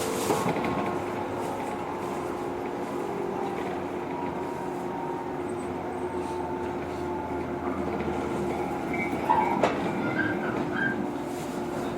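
Inside a JR 115 series electric train: a steady running hum with wheel and rail noise as the train runs into a station. About nine and a half seconds in there is a sharp click, followed by a few short high squeaks.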